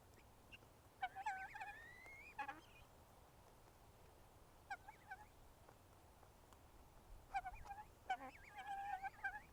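Domestic poultry calling in several bursts of short, pitched calls, one rising in pitch about a second in, with more calls near five seconds and a busier run of calls over the last two seconds.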